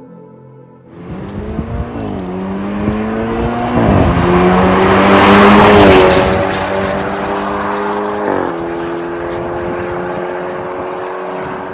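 BMW 328i's N20 turbocharged 2.0-litre four-cylinder through an MS-R valved catback exhaust, accelerating hard through the gears. The engine note climbs, then drops at each upshift, about two, four and eight and a half seconds in, and is loudest around the middle.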